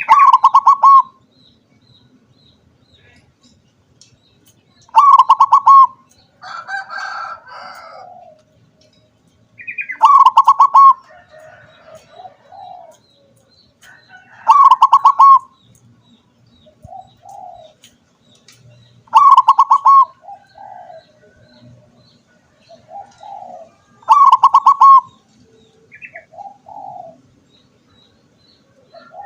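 Zebra dove (perkutut) singing: a loud, rapidly pulsed cooing phrase about a second long, repeated about every five seconds, six or seven times, often led by a short higher note. Fainter, softer calls come between the phrases.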